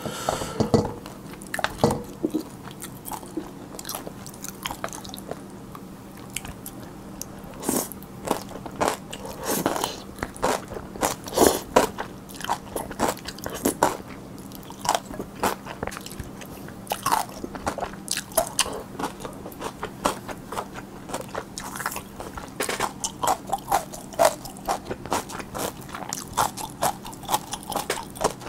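Close-miked eating of spicy cold noodles with whelks and crisp pan-fried dumplings: irregular wet chewing clicks and crunches, with a bite into a crisp dumpling near the end. A faint steady low hum sits underneath.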